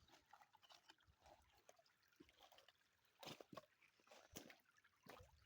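Near silence with faint, scattered ticks and short rustles, a few slightly louder ones past the middle.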